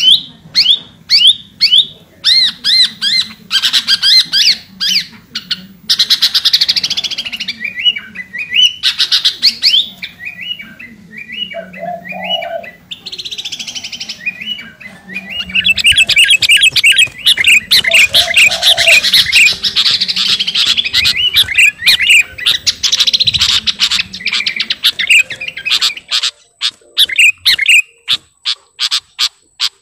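Sooty-headed bulbul in full song as a challenge call to a rival: short, sharp whistled notes repeated about twice a second, breaking into dense runs of chattering notes in the middle before thinning out again near the end.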